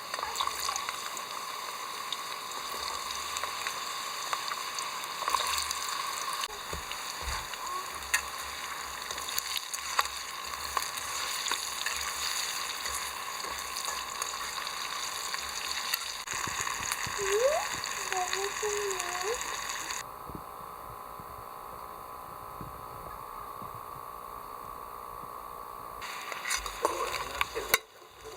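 Food sizzling and frying in a pan, a steady hiss full of small crackles and pops, which drops away for several seconds after the middle and returns near the end. A brief high, voice-like call sounds about two-thirds of the way through.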